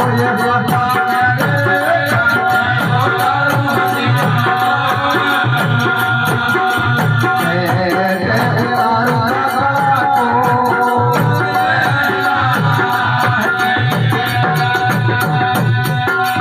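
Live Rajasthani devotional bhajan music, instrumental: a held melody line over a steady drum beat.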